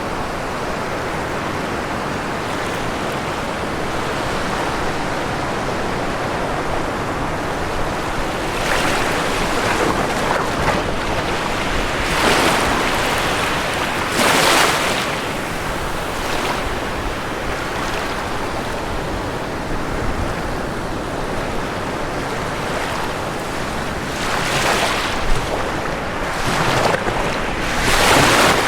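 Ocean waves breaking on a shore, a steady wash of surf with several louder breakers rising and falling, the strongest about halfway through and near the end.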